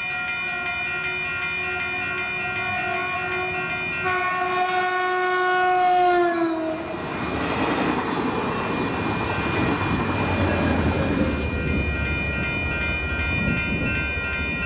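Grade-crossing bells ringing as a Caltrain commuter train sounds its horn about four seconds in, the horn's pitch dropping as the train passes. The train then rumbles and clatters through the crossing, and the bells are still ringing near the end.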